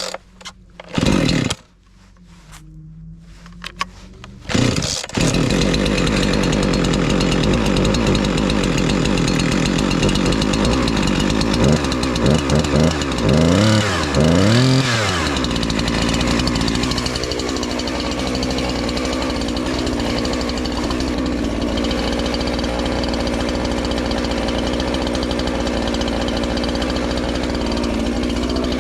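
Husqvarna 345 two-stroke chainsaw starting: a couple of short bursts, then it catches about five seconds in and keeps running. Around twelve to fifteen seconds in it is revved three times, pitch rising and falling, then it settles into steady running while it warms up.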